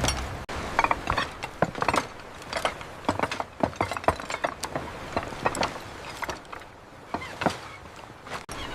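Construction work: irregular knocks and clicks of tools and building materials, a few a second.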